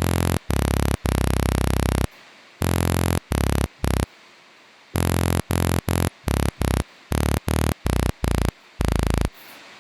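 Synth bass preset from the Akai MPC 'The Noise' expansion, played as a run of about sixteen short and held notes that start and stop abruptly, with a pause near the middle.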